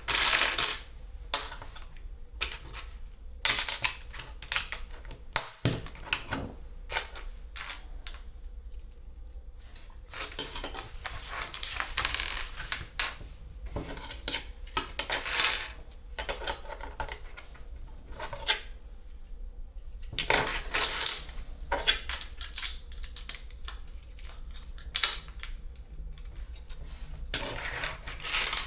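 Small plastic LEGO pieces being handled and snapped together: many short clicks and clatters, some in quick runs.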